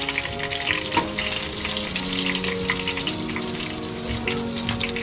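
Hot sunflower oil in a frying pan sizzling and crackling steadily, just after shallow-frying fish.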